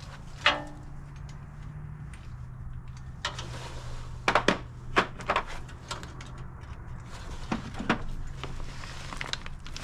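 Metal hand tools clinking and knocking as they are handled, about eight sharp clacks spread unevenly, over a steady low hum.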